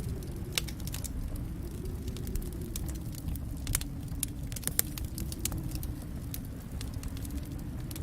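Wood fire crackling in a fireplace: irregular sharp pops and snaps over a steady low rumble of burning, with two louder pops near the middle.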